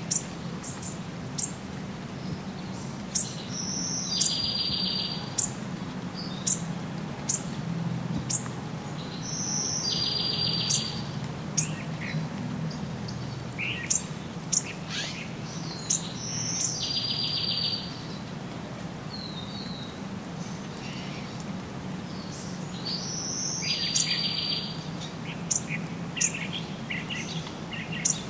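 Birds singing: one bird repeats a two-part song four times, about six seconds apart, a high note followed by a buzzy trill, among many short, sharp high chirps. Under it runs a steady low background noise.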